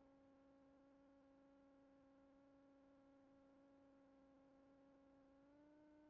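Near silence: a faint steady electrical hum with overtones on the cockpit intercom audio, stepping up slightly in pitch near the end.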